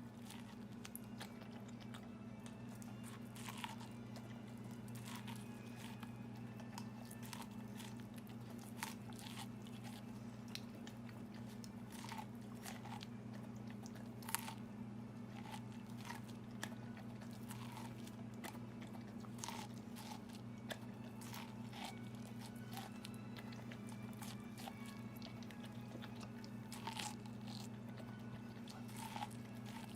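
Faint, irregular crunching clicks of chewing, about one every second or so, over a steady low hum.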